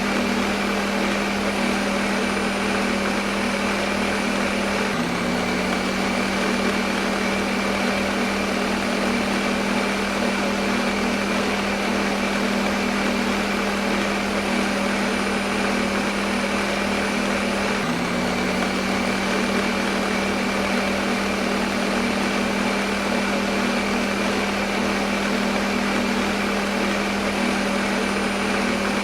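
Electric kitchen blender motor running steadily, a constant hum over a whirring noise. The pitch shifts slightly about five seconds in and again near eighteen seconds.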